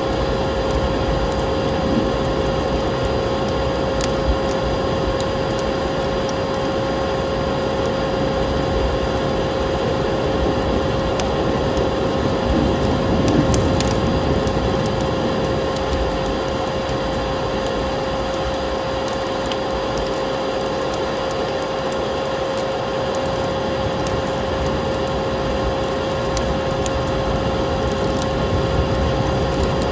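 Wood fire crackling with scattered sharp pops, layered over the steady hum of a vacuum cleaner running at one constant pitch.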